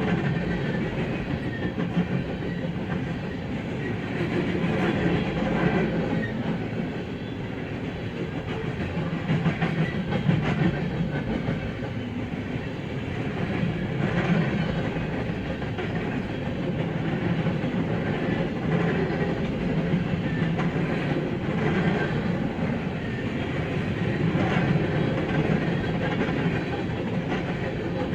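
BNSF freight train's cars rolling past, with steady wheel-on-rail noise that swells and eases and a rhythmic clickety-clack of wheels over the rail.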